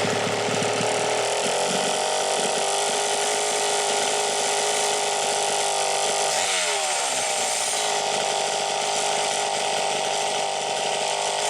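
Homelite Super XL two-stroke chainsaw running steadily on its refurbished engine, with fresh piston rings still breaking in. There is a brief rise in pitch about six and a half seconds in.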